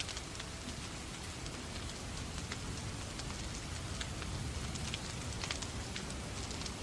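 Steady rain mixed with a fireplace fire crackling, with scattered sharp pops at irregular moments.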